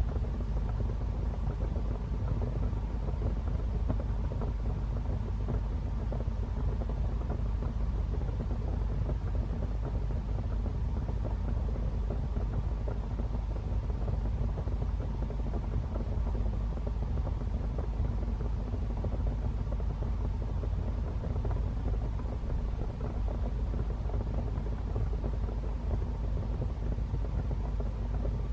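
Fire burning in a fireplace: a steady low rumble with dense small crackles throughout.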